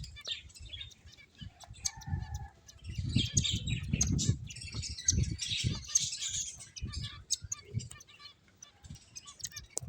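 Small pet finches chirping in quick short calls, busiest in the middle, mixed with soft low thumps and fluttering of the birds moving about.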